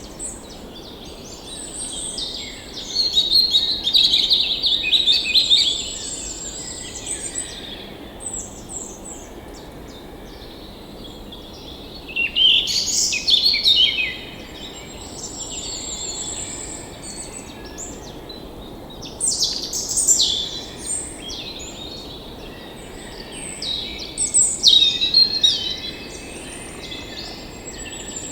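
Birds singing in bursts of quick high chirps and trills, four main spells with quieter calls between, over a steady faint background hiss.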